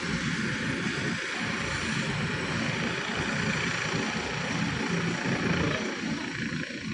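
Helicopter running in flight: a steady engine and rotor drone with an uneven low rumble and a constant hiss over it.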